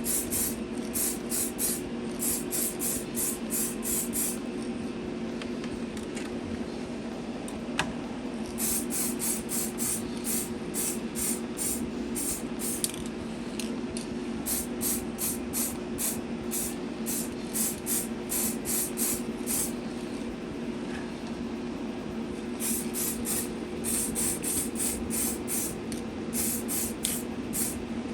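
Aerosol spray can of metallic black polycarbonate paint hissing in short bursts, about two a second, in runs broken by pauses of a few seconds, as a coat goes onto an RC car body. Under it, the steady hum of the small paint booth's extraction fan.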